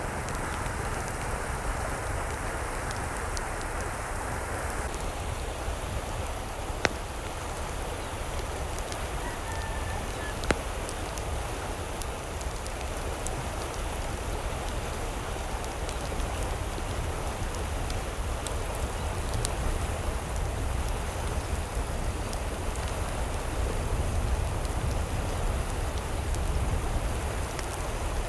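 Steady rain falling, with scattered sharper drop ticks, two louder ones about seven and ten seconds in.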